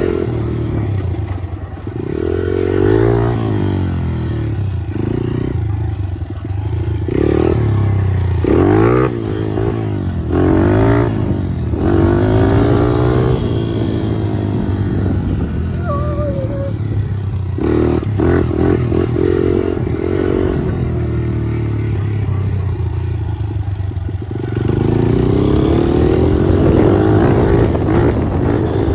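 Honda CRF100 dirt bike's small four-stroke single-cylinder engine being ridden, its pitch rising and falling again and again as the throttle is opened and backed off.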